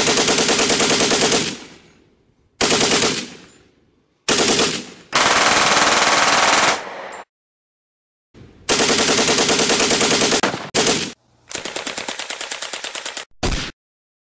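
Machine-gun sound effects: about six bursts of rapid automatic fire, from a short stutter to about two seconds long, most of them cutting off abruptly.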